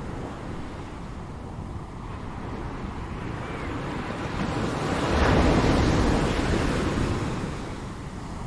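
Ocean surf: a wave swells about four seconds in, breaks loudest a little after five seconds, and washes back out by about eight seconds over a steady background of surf.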